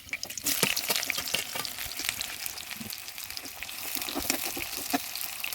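Food frying in hot oil in a pan: steady sizzling with scattered crackles and pops, growing louder about half a second in.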